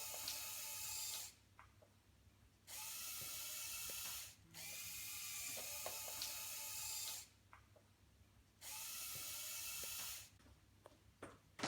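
Lego Power Functions electric motors whirring through plastic Technic gears, raising and lowering the drawbridge. They start and stop in four runs of one and a half to three seconds, with light clicks in the pauses.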